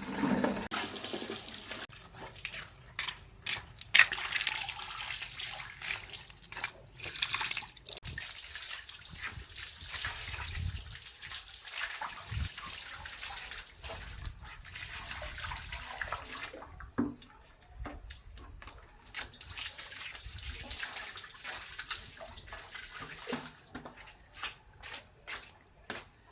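Water running and splashing in an uneven hiss that breaks off twice and comes back, with a few scattered knocks.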